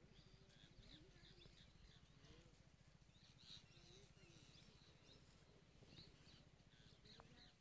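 Near silence outdoors, with faint scattered bird chirps over a low steady rumble.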